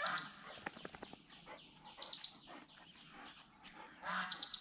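A bird calling: short runs of three or four quick, high chirps, repeated about every two seconds.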